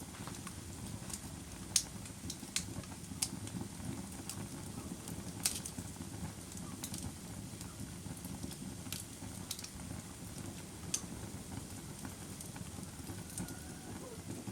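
Fire crackling: irregular sharp pops and snaps over a steady low rush of burning.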